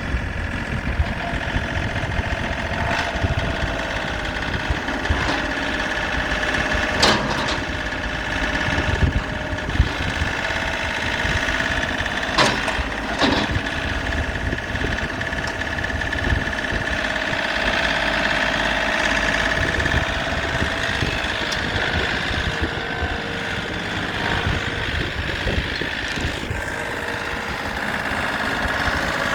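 John Deere 3032E compact tractor's three-cylinder diesel engine idling steadily, with a steady high whine over it and a few sharp clicks.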